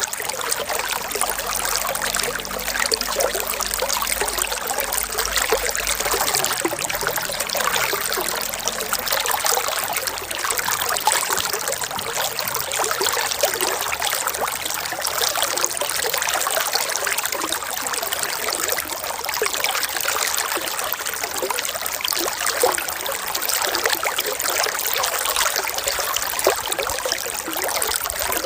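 Running water trickling and splashing steadily, a continuous bright rushing with small flickering splashes and no pauses.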